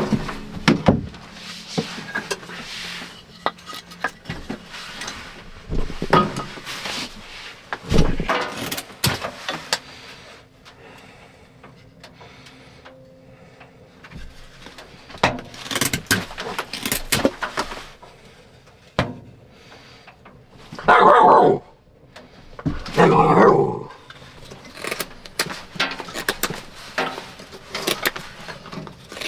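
Irregular knocks and taps of wood being worked by hand, with a husky puppy giving two loud barks about two-thirds of the way through.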